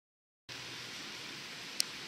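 Dead silence for about half a second, then a steady hiss sets in, with a single sharp tick near the end.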